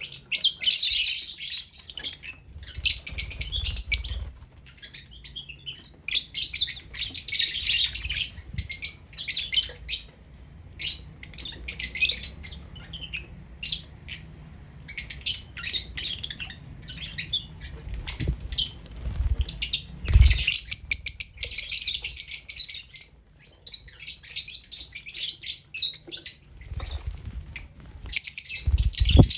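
Lovebirds chattering in rapid, high-pitched chirps that come in bouts of a few seconds with short pauses between them. A couple of dull thumps come through, one about two-thirds of the way in and one near the end.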